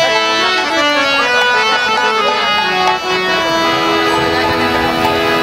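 Harmonium playing a stepping melody over long held notes, the instrumental opening of a kirtan song.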